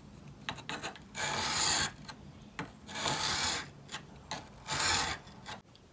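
Steel chisel blade being rubbed back and forth on a whetstone wet with Windex: three long gritty scraping strokes about two seconds apart, with shorter scrapes between.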